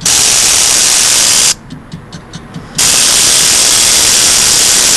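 Kawasaki ZX-14 starter relay buzzing loudly as the start button is pressed twice, for about a second and a half and then for about two seconds, without the engine turning over: the starter is not cranking even with the battery boosted by a 50-amp charger.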